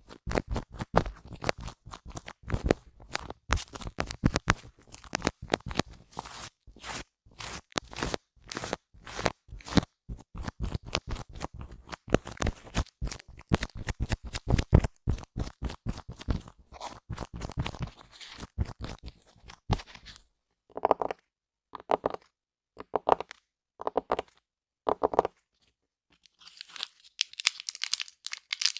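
Small objects scraped rapidly across a microphone close up, a dense run of scratchy strokes. About two-thirds of the way through it slows to about five separate strokes, pauses briefly, then turns to a higher, softer brushing hiss near the end.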